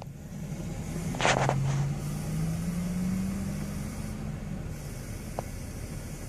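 Truck engine pulling away, its pitch climbing steadily for a few seconds before easing off, with a short hiss about a second in and a single click near the end.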